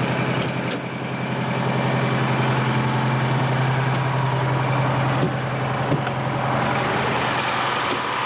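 Detroit Diesel 8V71 two-stroke V8 of a 1977 American LaFrance fire truck idling steadily.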